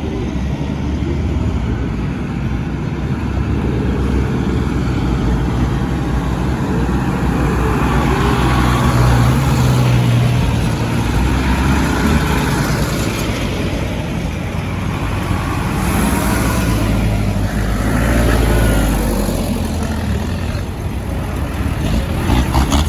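Modern farm tractors driving past in a procession, their diesel engines running; the sound swells as one tractor nears, about nine seconds in, and again near the end.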